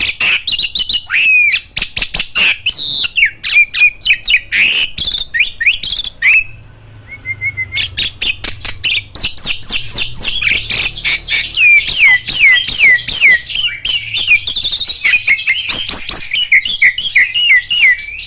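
Starlings calling: a busy chatter of chirps, sharp clicks and quick falling whistles. It eases off briefly about six seconds in, then picks up again.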